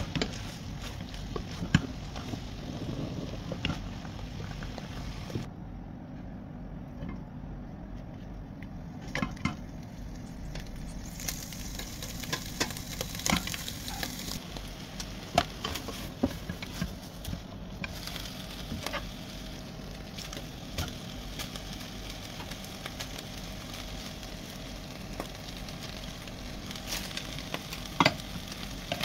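Tripe pieces sizzling in a nonstick pan as their water cooks off, with scattered clicks and scrapes as a spatula turns them against the pan. The hiss is thinner from about five to eleven seconds in.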